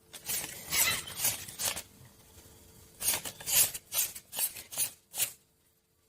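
A dog chewing something crunchy: irregular crisp crunches in clusters, with short pauses between bites.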